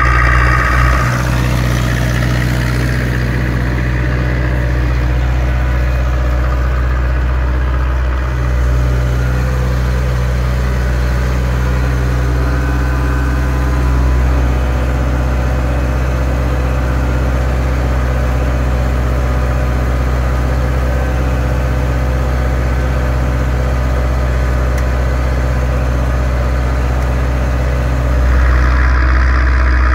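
Zetor 6245's four-cylinder diesel engine running steadily under load while pulling a three-furrow reversible plough, its note growing louder near the end.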